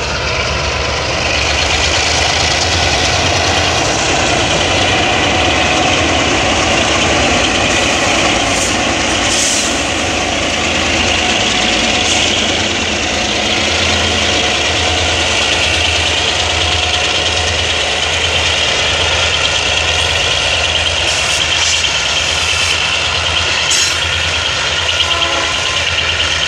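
Freight train passing close by, led by three G22U-B diesel-electric locomotives whose engines run with a steady low throb, together with the rumble and clatter of the wheels and boxcars on the rails.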